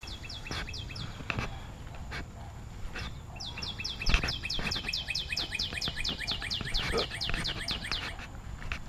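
A bird singing a fast series of sharp descending notes, about six a second: a short run near the start, then a long run from about three and a half seconds in until shortly before the end. Footsteps crunch on a gravel path underneath.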